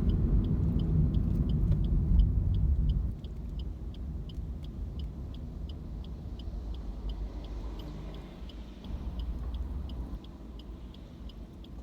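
Car cabin noise from the moving car, with a rapid, evenly spaced ticking of the turn-signal indicator throughout. The low road and engine rumble drops off about three seconds in as the car slows.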